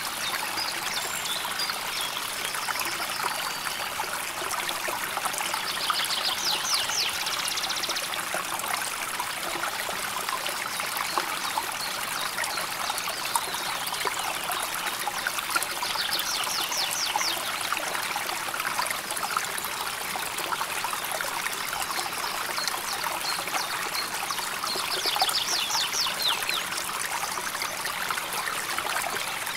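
River water flowing steadily over stones, a continuous trickling rush. Three times, roughly nine seconds apart, a short rapid high trill from a bird sounds over it.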